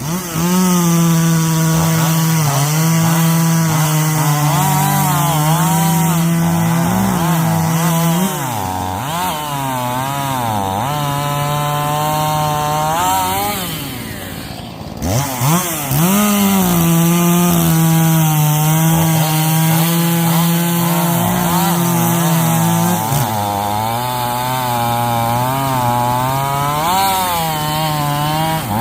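Echo CS-590 Timberwolf two-stroke chainsaw running at high revs and cutting wood, its engine note sagging and recovering as the chain loads up in the cut. About halfway through the revs drop briefly, then climb back to full throttle.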